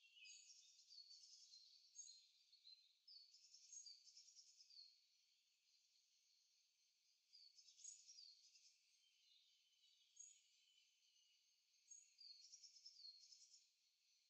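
Faint birdsong: bouts of high chirps, quick trills and short downward-slurred notes every few seconds, with quieter gaps between.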